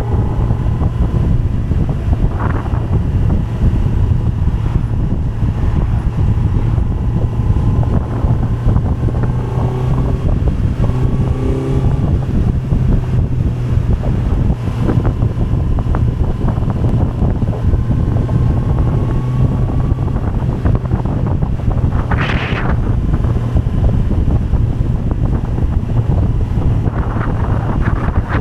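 Kawasaki Z900's inline-four engine running at a steady speed while riding, with heavy wind noise on the microphone. A brief louder hiss about 22 seconds in.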